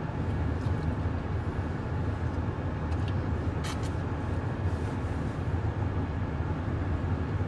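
Steady low rumble of a car heard from inside the cabin, with a brief scratchy noise about three and a half seconds in.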